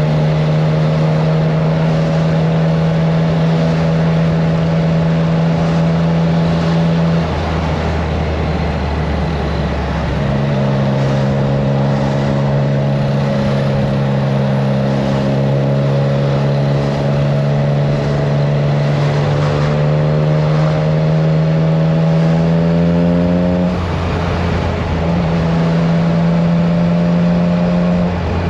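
Triumph Trident 660 inline three-cylinder engine running through a FireTong aftermarket exhaust under way. Its note climbs slowly and is broken twice, about a quarter of the way in for a few seconds and again near the end for about a second, coming back lower each time as with an upshift. Wind rushes over the microphone throughout.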